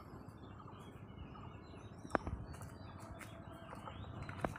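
Faint outdoor background with scattered bird chirps, and two sharp clicks, one about two seconds in and one near the end.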